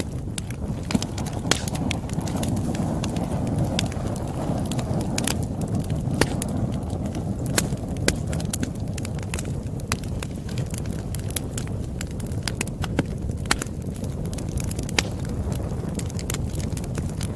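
Campfire crackling: a steady low rush of burning wood with frequent sharp pops and snaps at irregular intervals.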